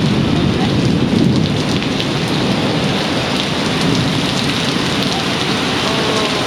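Heavy summer downpour: a dense, steady hiss of rain pouring down, heavier and lower-pitched for the first couple of seconds.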